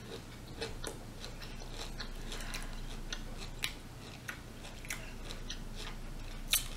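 A person chewing and biting crunchy food, with scattered crisp crackles and a sharper click near the end.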